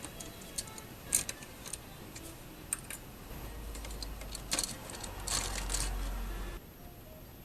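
Scattered light clicks and taps of small tools and plastic parts being handled during Betamax VCR repair work. About three seconds in, a low hum starts under the clicks and cuts off suddenly near the end.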